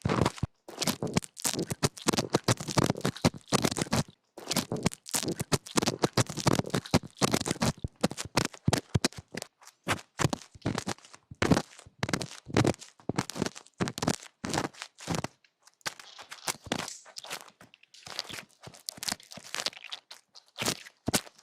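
Ear-cleaning ASMR sounds: irregular scratching, crunching and scraping, in quick clusters of clicks with short pauses between them.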